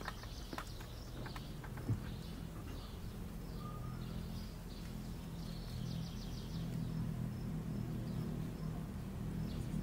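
Birds chirping, with a few short trills, over a steady low hum that grows a little stronger partway through.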